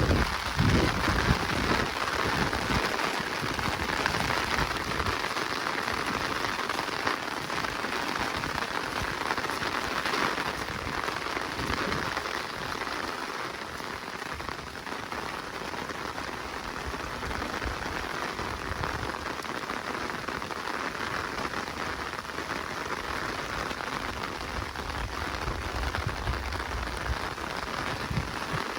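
Steady rain falling: a dense, even hiss of drops.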